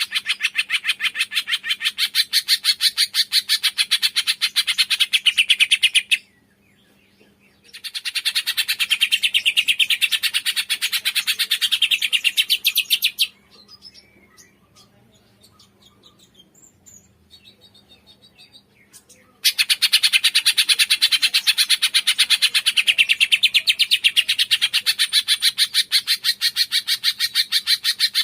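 Cungkok bird calling in a fast, even run of sharp chirps, about six a second, in long bouts broken by a short pause about six seconds in and a longer lull of faint calls around the middle.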